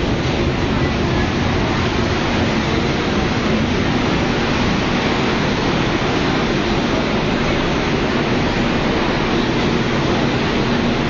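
Sembrani passenger train coaches running past at close range: a loud, steady rushing noise of wheels on rail and moving air, with no distinct wheel clicks.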